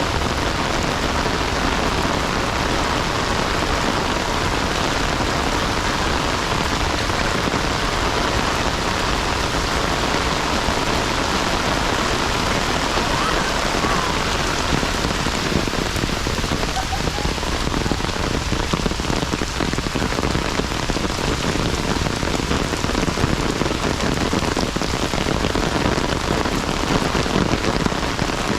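Heavy rain falling steadily, an even hiss with no pauses.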